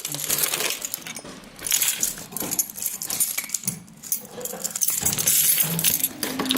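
A dog moving about, with irregular clinking and jingling of small metal pieces and scuffling.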